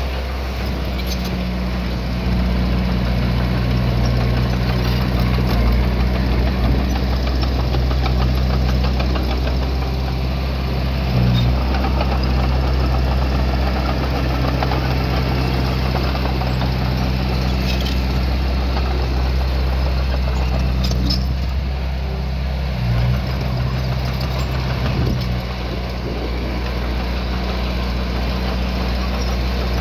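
Heavy construction machine's diesel engine running steadily, its note shifting a few times as the load changes, with a couple of faint knocks.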